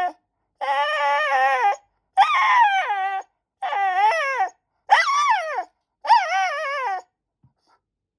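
White Shiba Inu whining and howling at its owner for a snack: a run of about five drawn-out calls, each about a second long, wavering up and down in pitch, with short pauses between them and a stop about a second before the end.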